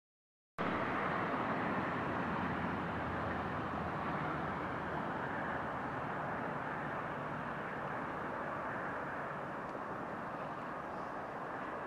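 Railway train running on the line: a steady rumble that cuts in abruptly about half a second in and slowly fades.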